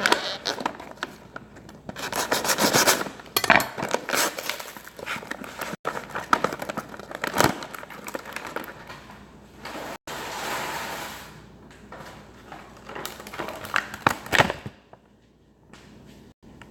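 Kitchen handling noises: dry bow-tie pasta rattling in its packaging as it is tipped out, with irregular rustling, scraping and clattering that dies away near the end.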